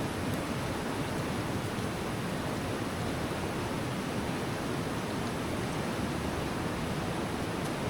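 River water rushing, a steady even hiss.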